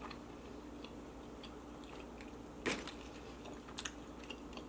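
Quiet, close-miked chewing of food, with soft mouth clicks and smacks; the sharpest click comes a little past halfway through.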